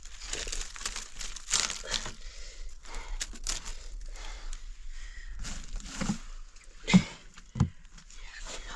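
Irregular rustling and crinkling, as of something being handled, with two sharp knocks about seven seconds in, the first the loudest.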